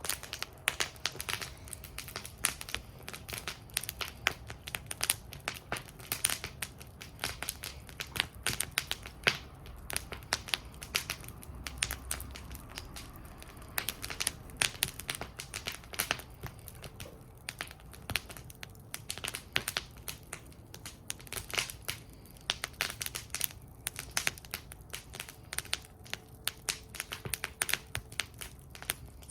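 Wood fire burning in a fire bowl, crackling and popping irregularly and continuously, with sharp snaps over a low hiss.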